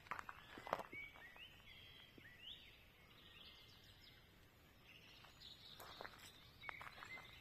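Quiet forest ambience with several short bird chirps in the first few seconds, and a few light crackles near the end.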